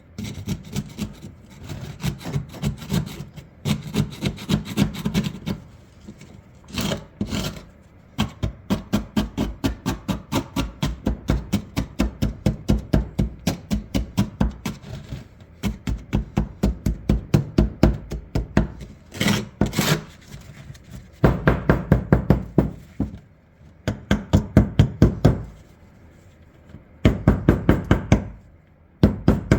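Rapid back-and-forth scraping of a hand tool against the rusted steel of an old double-barrel shotgun, about four to five strokes a second. The strokes come in runs with a few short pauses, as rust and gunk are worked off the barrels.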